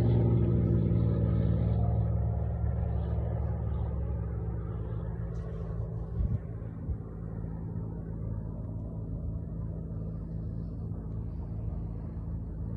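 Cessna 210 Turbo's piston engine and propeller droning steadily as the plane moves away, fading gradually. A couple of brief thumps about six and seven seconds in.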